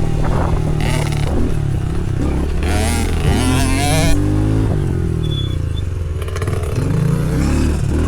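Small dirt bike engine revving up and easing off again and again as it is ridden round a dirt track, its pitch rising and falling several times.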